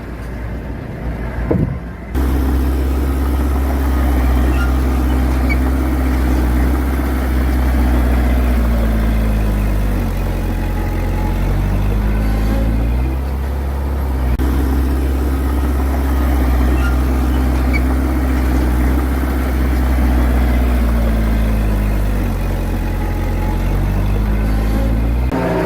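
Heavy diesel engine of earthmoving machinery running with a deep, steady drone that starts abruptly about two seconds in. Its engine speed dips and climbs back twice. Before the engine comes in there is a lighter rumble with a few knocks.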